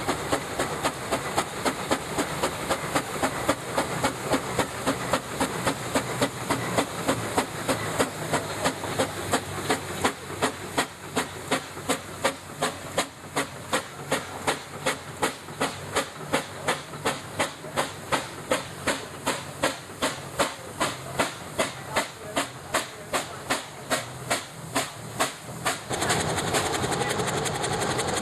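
Steam traction engine working on the road, its exhaust chuffing in an even beat of about three a second with steam hiss. About two seconds before the end it cuts abruptly to a steady noise with no beat.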